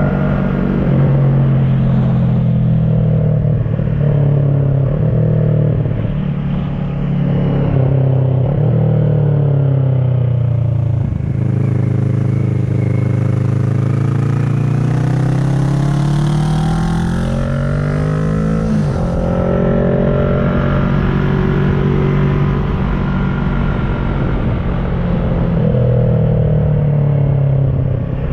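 Kawasaki ER-6n parallel-twin engine through an SC Project carbon exhaust, ridden under load. Midway the engine note climbs steadily for several seconds under acceleration, drops sharply at an upshift, then settles to a steady cruise.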